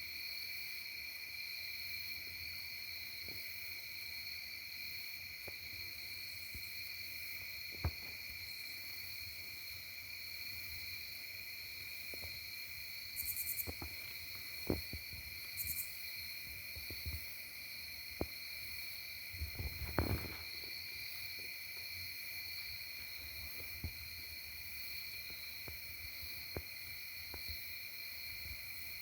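Insect song: one continuous high trill held at a steady pitch, with two brief pulsed high buzzes about halfway through and scattered faint clicks and knocks, the loudest a cluster of knocks about two-thirds of the way in.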